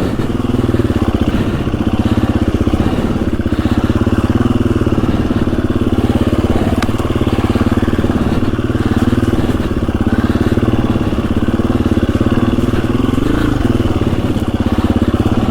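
KTM 350 EXC-F dirt bike's single-cylinder four-stroke engine running at a low, steady trail pace while being ridden, its pitch shifting slightly with small throttle changes.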